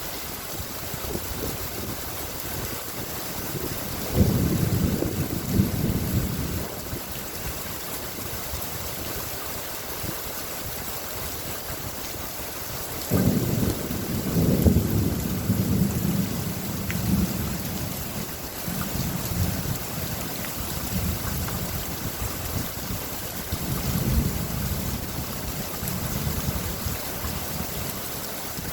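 Steady rain falling, with rolls of thunder: a sudden crack and rumble about four seconds in, a longer rumble starting suddenly about thirteen seconds in, and a softer one later on.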